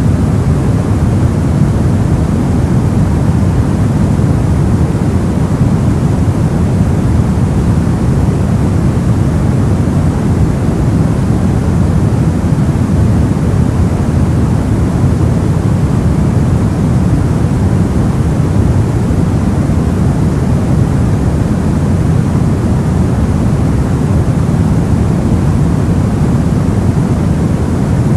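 Steady soft white noise: an even, unchanging hiss weighted toward the low end, so it sounds deep and muffled rather than bright.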